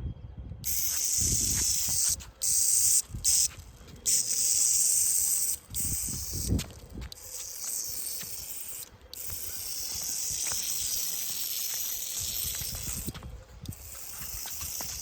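A steady high hiss that starts and stops several times in long spurts, with light knocks and handling sounds underneath.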